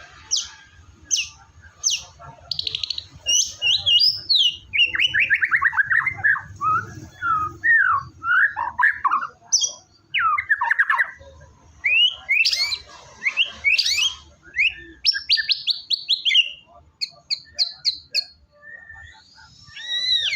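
White-rumped shama (murai batu) singing vigorously: a varied run of fast sweeping whistles and rattling trills, with a few short gaps, thinning out near the end.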